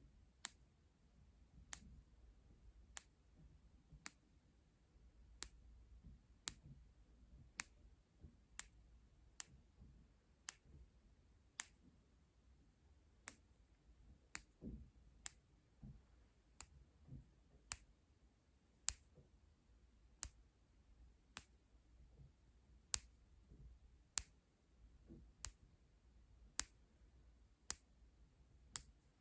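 A series of sharp, light clicks, about one a second and slightly irregular, with faint soft handling sounds between them.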